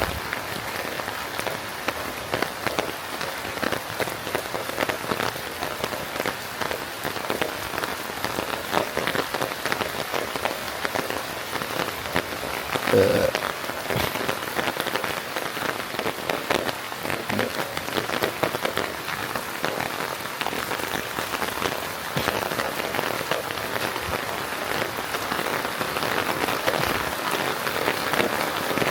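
Steady rain falling, with dense pattering drops on surfaces. About halfway through comes one brief, louder pitched sound.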